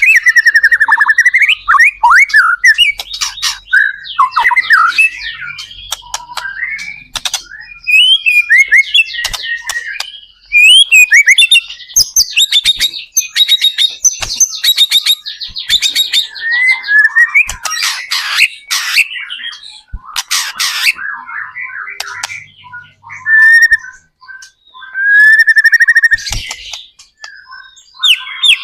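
White-rumped shama (murai batu) singing a long, varied song of clear whistles, rapid trills and rising and falling phrases, broken by short pauses. A few harsh, buzzy notes come in the latter half.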